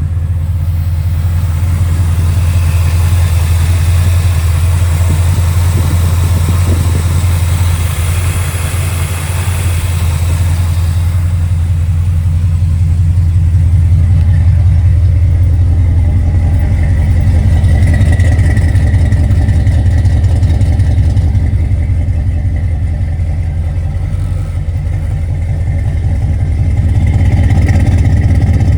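1972 Chevrolet Corvette's modified V8 idling with its exhaust note: a loud, steady, deep rumble with an even pulse, swelling slightly a couple of times.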